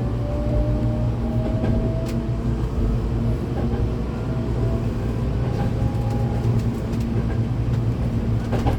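Hankyu 8200-series train with Toshiba GTO-VVVF inverter running between stations, heard from inside the car: a steady rumble of wheels on rail. A rising inverter-motor tone fades out about two seconds in, and there are a few light clicks.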